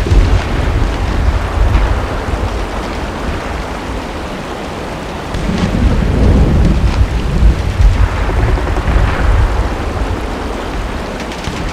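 Steady rain with deep rolling rumbles of thunder, heavy at first, easing off, then swelling again about five seconds in before fading.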